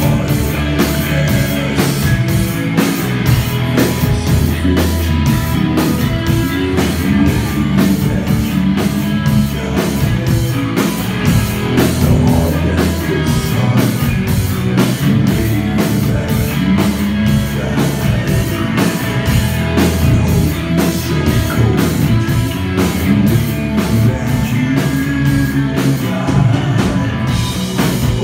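Live rock band playing, with a drum kit keeping a steady cymbal beat over bass and guitar.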